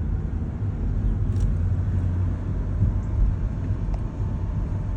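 2007 BMW 328i wagon's 3.0-litre inline-six running as the car drives, heard from inside the cabin with the windows down: a steady low rumble of engine and road noise.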